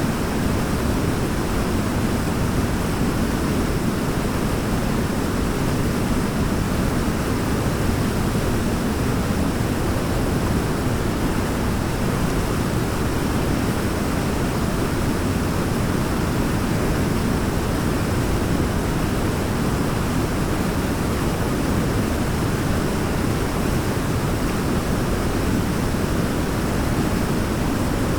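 Waterfall: a steady rush of falling water, deep and unbroken.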